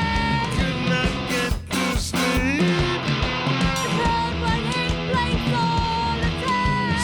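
Post-punk rock band playing live, with electric guitar and drums on a steady beat.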